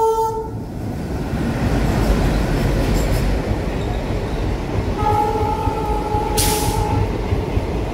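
Passenger train behind a diesel locomotive running past the platform, a steady rumble of coach wheels on the track. The horn sounds briefly at the start and again for about two seconds from about five seconds in, with a short burst of hiss near the end of the second horn.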